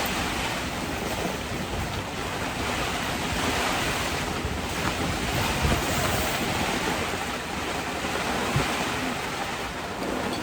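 Heavy downpour pouring onto a tent, with the wind gusting, a steady dense rush. Two faint brief knocks come through it, midway and later on.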